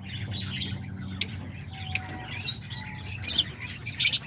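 A flock of caged lovebirds chirping, with many short, high calls overlapping and a few sharper, louder shrieks about one, two and four seconds in, over a steady low hum.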